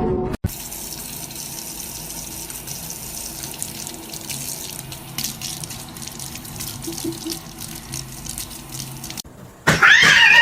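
Steady running water, like a tap into a sink, with small splashes and clicks throughout. A short, loud, pitched call that rises and falls cuts in near the end.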